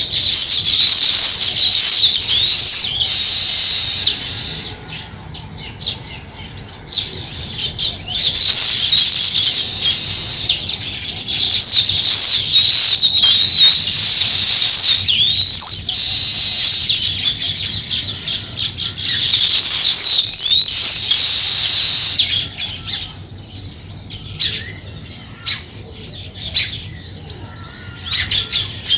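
House sparrows chirping in busy, overlapping runs of high chirps. Twice the chirping thins to a quieter spell, about five seconds in and again from about two-thirds through, with scattered short rustles and taps.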